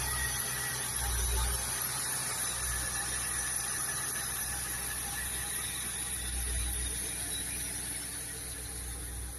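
MG ZT 260's 4.6-litre Ford V8 engine running, with a steady high whine above the low engine note; this is the noise whose cause the owner is asking about.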